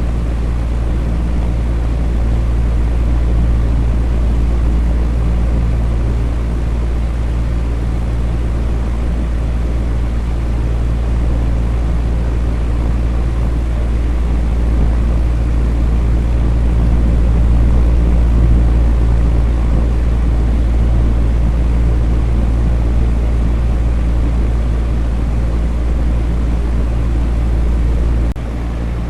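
Electric fan running steadily: an even rushing noise with a low hum beneath it, the level dipping slightly near the end.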